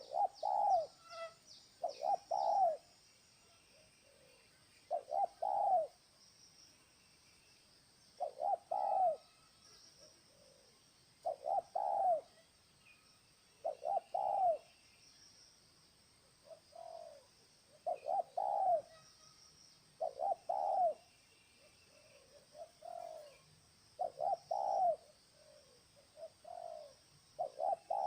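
Spotted dove cooing: short arched coo phrases repeated every two to three seconds, some fainter than others. Faint high chirps of small birds sound above them.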